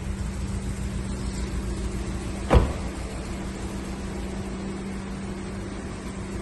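Steady low hum of the Haval F7x's 2.0-litre turbo petrol engine running at idle, with a single sharp knock about two and a half seconds in.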